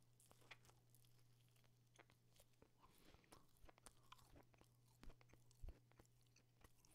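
Faint close-miked chewing of a bite of Icelandic smoked meat (hangikjöt): scattered soft mouth and jaw clicks, a little louder about five seconds in, over a low steady hum.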